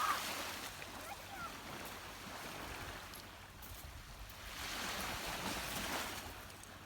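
Gentle waves washing and wind, swelling twice, with faint voices near the start.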